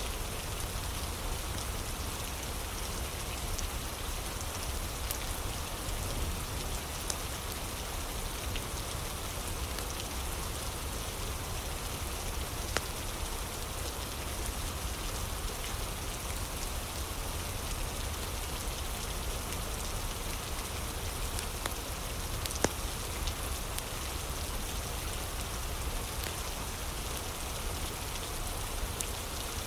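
Steady rain ambience, an even hiss of falling rain, with a few scattered sharp pops from a crackling fire, the loudest about 13 and 23 seconds in.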